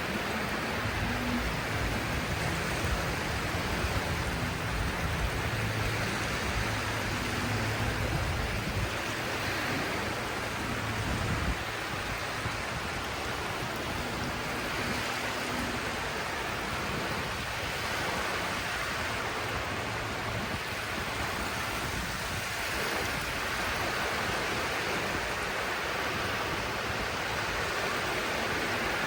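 Sea waves washing on the shore in a steady rush of surf. A low hum sits under it until about twelve seconds in, then stops.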